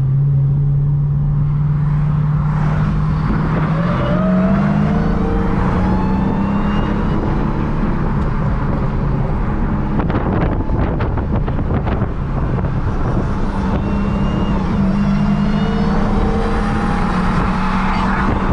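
Performance car engine at full throttle during a drag race, its pitch climbing and then dropping back at each of several gear shifts.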